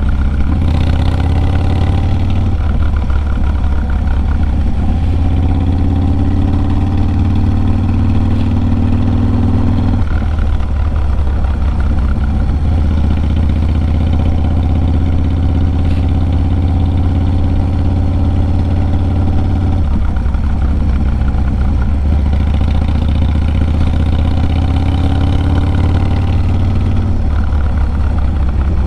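Harley-Davidson Low Rider S's 110 cubic-inch V-twin running through a Sawicki Speed 2-into-1 exhaust while riding. The engine note climbs slowly and then drops back, about every ten seconds.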